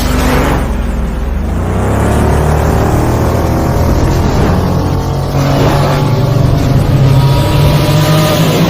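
Royal Enfield Continental GT 650's 648 cc parallel-twin engine running through a Red Rooster Performance aftermarket exhaust, a loud deep rumble with the revs rising and falling a few times.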